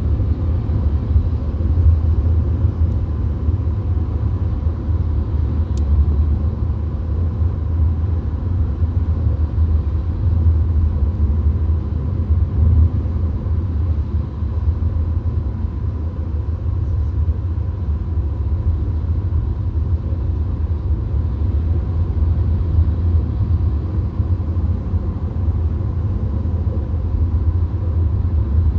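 VW Golf cabin at steady motorway speed: a steady low rumble of tyre, road and engine noise.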